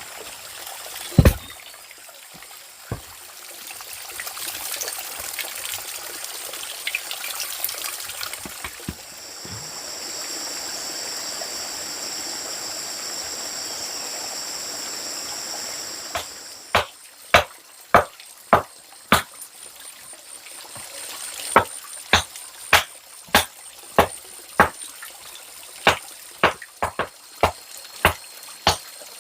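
Water trickling and pouring, then a long run of sharp, regular knocks, about two a second, from a little past the middle onward.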